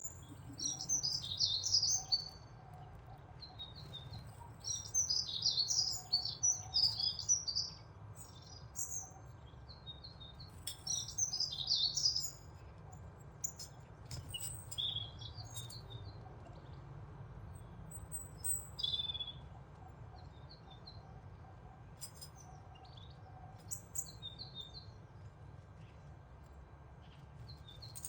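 Birds chirping and twittering in high-pitched bursts, dense for the first dozen seconds, then sparser single calls, over a steady low hum.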